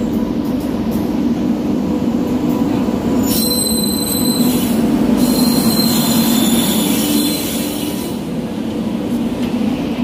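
Indian Railways passenger train coaches rolling past at close range, a steady rumble of wheels on the rails. A high-pitched squeal rises over it about three seconds in and again from about five to seven seconds in.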